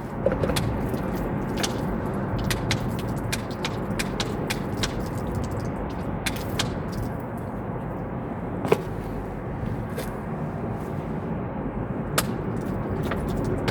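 Steady rushing noise, likely running water, with scattered scrapes and sharp clicks from shoes being cleaned off.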